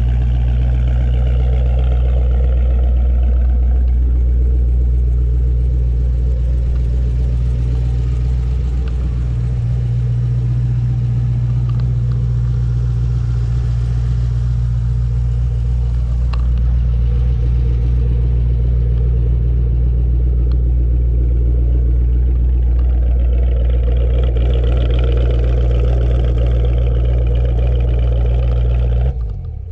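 2013 Chevrolet Camaro Lingenfelter ZL1's supercharged 6.2-litre V8 idling steadily after a cold start, its note settling slightly about eight seconds in. The engine is switched off just before the end and dies away.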